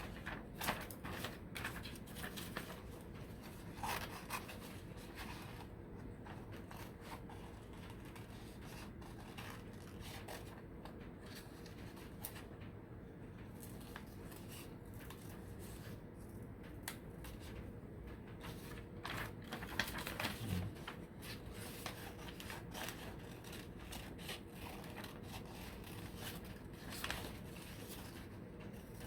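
Scissors cutting paper leaves along the printed lines, in many short, irregular snips, with a low steady hum underneath.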